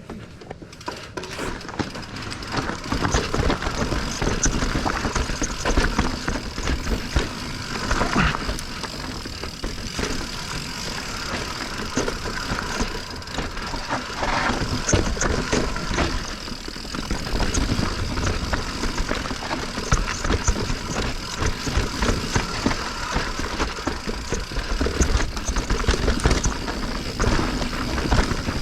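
Mountain bike clattering down a rocky technical trail: continuous rattling and knocking of the bike over rocks and roots, with tyre noise and a low rumble.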